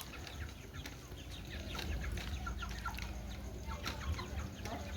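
Indian ringneck parakeet giving scattered short chirps and quick squeaky calls, with a few brief pips about halfway through, over a steady low background rumble.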